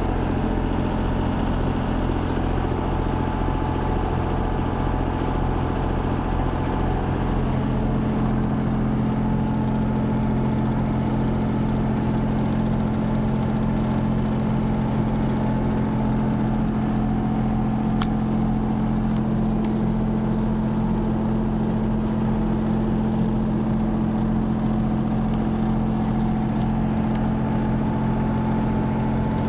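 Boat engine running steadily at a constant speed, a low even drone; its note strengthens slightly about seven seconds in.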